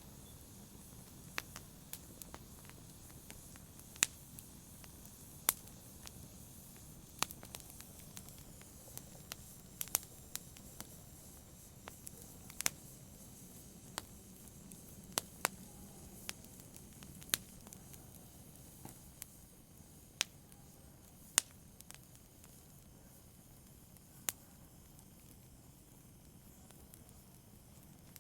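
A fire in a fireplace crackling: sharp, irregular pops and snaps over a low steady hiss. The pops grow sparser in the last few seconds.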